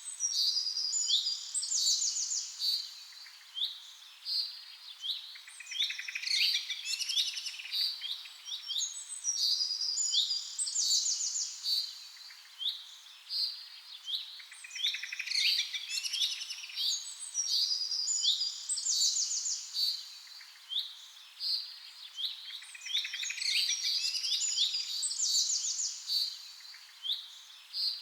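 Small songbirds chirping and singing in a busy chorus of quick, high chirps and rapid trills. The same run of calls comes round again about every nine seconds, as from a looped recording.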